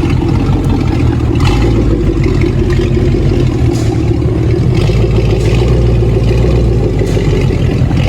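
Ford Mustang Shelby GT500's V8 running steadily through a straight-piped Akrapovič exhaust, a deep, loud, even exhaust note without revving up.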